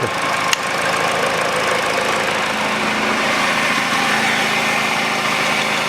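Peugeot 408's 1.6-litre petrol engine idling steadily with a new poly-V drive belt fitted. There is no knock or rattle: the clatter caused by the stretched old belt and the shaking tensioner is gone. A single light click sounds about half a second in.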